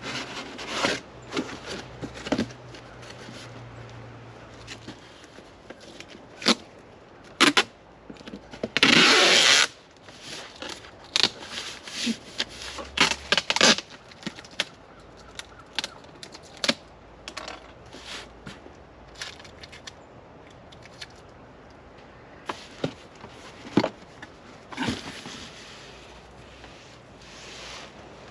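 Hands handling boxed accessories and their packaging: irregular clicks, knocks and scraping, with a loud noisy burst lasting under a second about nine seconds in.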